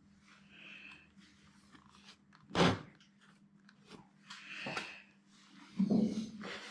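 Knocks and rustling as a fiberglass body kit panel is handled, with one louder knock about two and a half seconds in and smaller ones near the end, over a faint steady hum.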